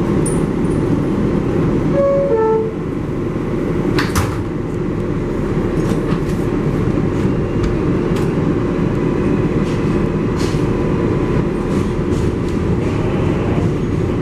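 An R188 subway train on the 7 line running between stations, heard from inside the car, with a steady rumble of wheels on rail. Sharp clicks are scattered through it, the strongest about four seconds in, and there is a brief falling tone about two seconds in.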